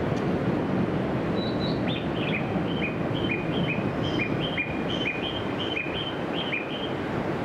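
E7 series Shinkansen train running slowly over the points as it pulls into the station, a steady low rumble. About a second and a half in, a run of short, high, bird-like chirps starts over it, alternating between two pitches at roughly three a second, and stops shortly before the end.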